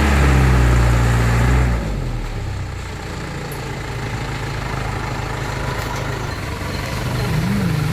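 Old dump truck's engine running loud and steady for about two seconds, then dropping back to a quieter, steady idle.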